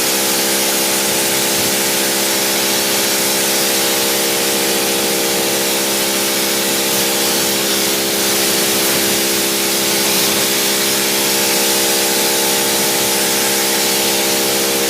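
AR BlueClean 1900 PSI electric pressure washer running steadily, its motor and pump humming under the loud hiss of the water jet rinsing down an engine bay.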